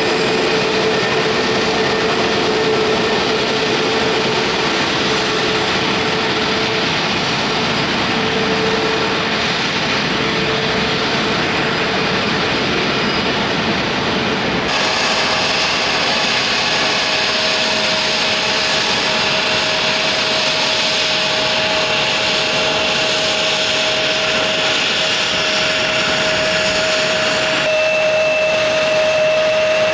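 Jet airliner engines running close by: a steady rush of engine noise with a held whine. The whine's pitch changes abruptly about halfway through and again near the end.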